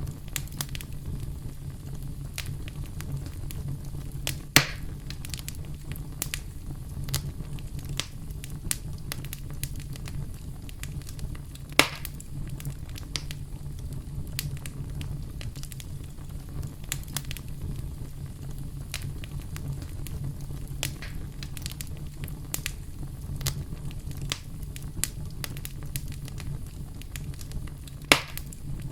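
Campfire crackling steadily over a low rumble of flames, with many small crackles throughout. Three louder sharp pops stand out: about four seconds in, near the middle and near the end.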